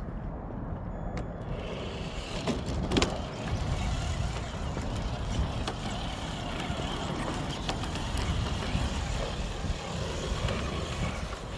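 Traxxas TRX-4 RC crawler driving along a forest trail: its electric motor and gears running steadily, tyres crunching over the ground, with a sharp click about three seconds in.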